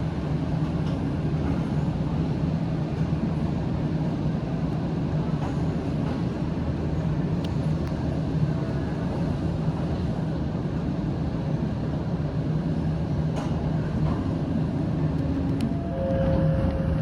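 Toyama Chihō Railway electric train running along the line, heard from on board: a steady rumble of wheels on rail with a few faint clicks. A couple of faint steady tones come in near the end.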